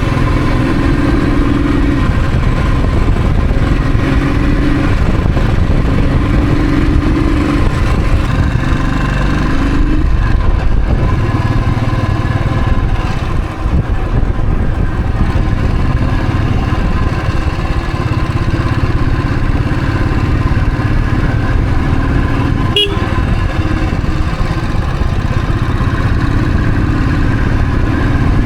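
Royal Enfield Thunderbird's single-cylinder engine running steadily as the motorcycle is ridden, with a dense low rush of wind and road noise. There is a brief dip about halfway through and a single sharp click near the end.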